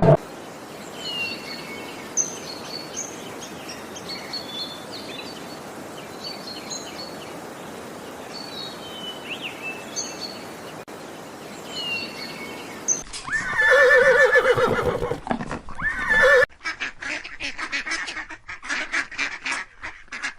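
Small birds chirping faintly over a steady outdoor hiss. About two-thirds of the way through, a horse whinnies loudly for about three seconds. A quick run of short waterfowl calls follows.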